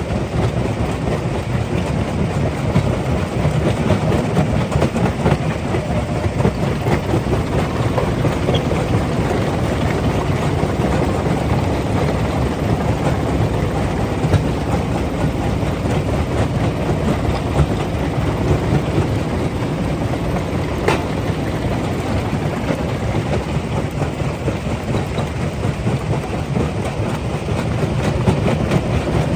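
Rock crusher running under load: a steady, heavy mechanical rumble with rattling of stone passing through, and one sharp click about two-thirds of the way in.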